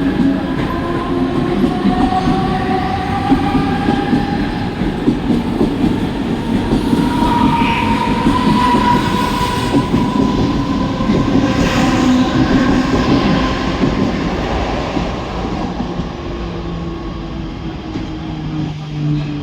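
Mumbai suburban local electric train running past the platform: a steady rumble and rattle of wheels on rails, with whining tones that rise in pitch over the first few seconds. It eases off from about fifteen seconds in.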